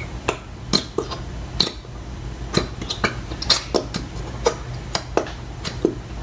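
Irregular light clinks and knocks against a mixing bowl, about two a second, while white glue is being poured into it, over a steady low hum.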